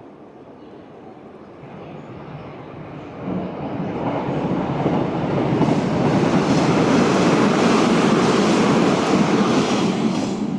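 Hanshin Railway electric train approaching and running past, its rumble building over a few seconds to a loud peak, with a rapid clatter of wheels over rail joints for the last few seconds.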